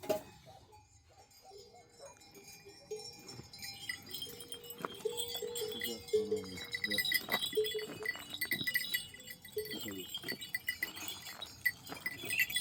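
Sheep and goats bleating, with livestock bells clinking and ringing. The bells come in a few seconds in.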